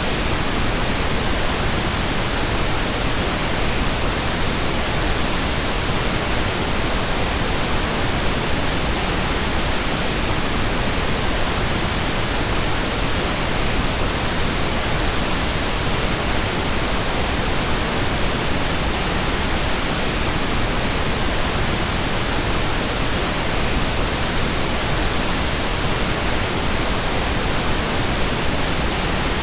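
Steady pink noise: an even, unbroken hiss spread across all pitches, weighted toward the low end, with no change in level.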